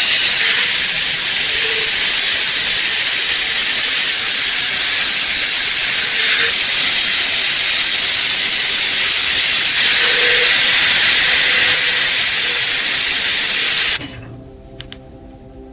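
Loud steady hiss that cuts off abruptly near the end, leaving a quieter background with a faint steady hum and a couple of sharp clicks.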